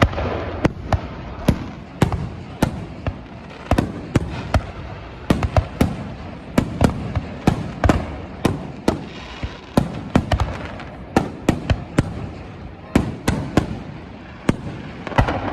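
Fireworks display: aerial shells bursting in a rapid, irregular string of sharp bangs, often several a second, each with a rumbling tail, thinning out near the end.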